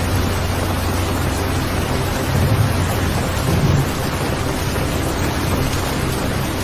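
Steady heavy rain, with two brief low rumbles of thunder near the middle.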